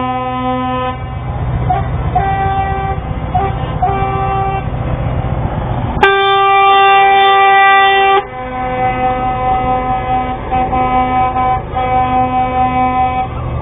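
Truck air horns sounding over the low rumble of truck engines: a held blast that stops about a second in, a few short toots, then a loud blast of about two seconds near the middle, followed by a run of quick repeated toots.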